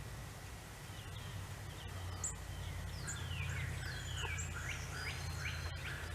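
Birds chirping and singing, a run of quick downward-sliding notes growing busier about three seconds in, over a steady low rumble.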